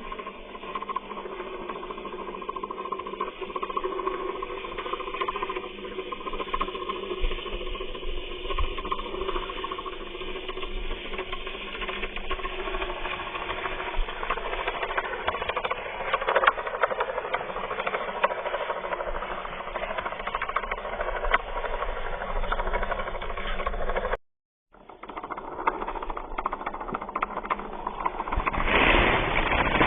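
Small electric gear motor of a homemade mini tractor running steadily with a rattle. It cuts out for a moment about 24 seconds in and comes back louder near the end.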